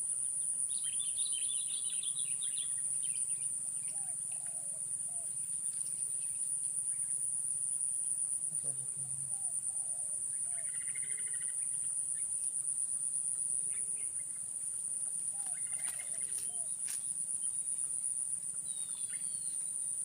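Insects keep up a steady, high-pitched buzzing trill throughout, with small birds chirping and calling here and there. There are a few sharp clicks about sixteen seconds in.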